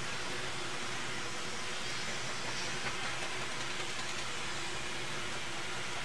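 Steady machine noise: an even hiss with a low, steady hum beneath it, unchanging throughout.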